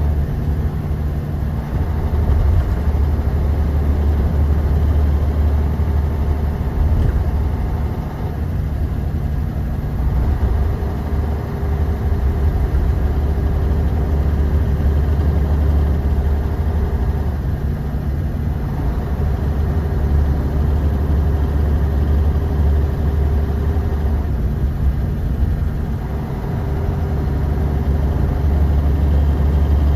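Bus engine running steadily, heard from inside the passenger cabin as a deep, continuous drone. A fainter hum rises over it and fades away again a few times.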